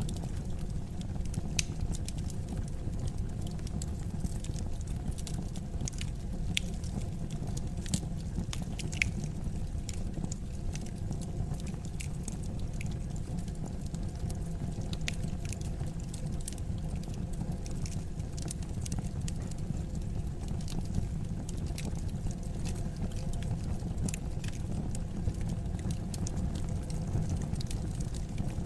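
Wood fire in a fireplace crackling: many sharp irregular pops and snaps over a steady low rumble.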